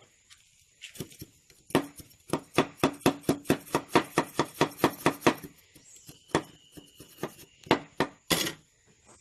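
A rapid, even series of sharp taps or knocks, about four or five a second for a few seconds, each with a brief ring, followed by a few scattered knocks near the end.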